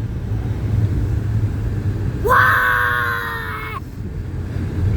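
Low, steady road rumble inside a moving car, with one long high-pitched scream about two seconds in that holds its pitch for about a second and a half.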